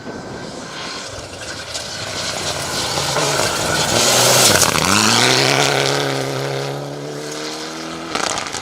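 Rally car passing at speed: its engine noise builds to a peak about four and a half seconds in, the pitch drops as it goes by, then the revs climb and hold as it drives away. A sharp crack comes near the end.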